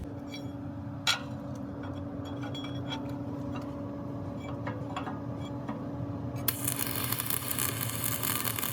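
Light metallic clinks and taps, the sharpest about a second in, over a steady machine hum. Then a loud steady hiss begins about two-thirds of the way through.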